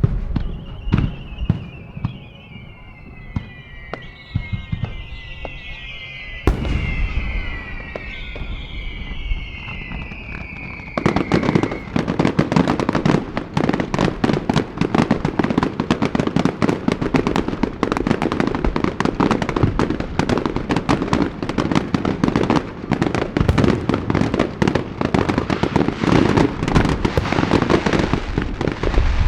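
Aerial fireworks going off. Scattered shell bursts come first, with several overlapping whistles falling in pitch, then a heavy boom about six seconds in. From about eleven seconds in, a dense, rapid crackle of many bursts goes on without a break.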